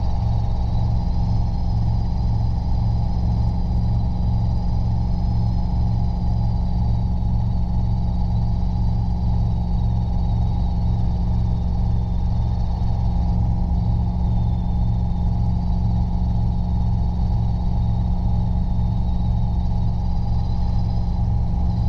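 Robinson R22 helicopter in steady flight heard from inside the cabin: a constant drone of engine and rotors with an even, rhythmic low beat and a faint high whine over it.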